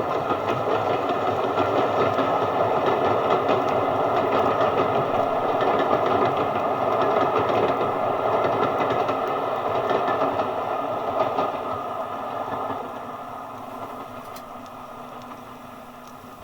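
Train running past with a fast rapid clatter, loud for most of the stretch, then fading away over the last few seconds as it recedes.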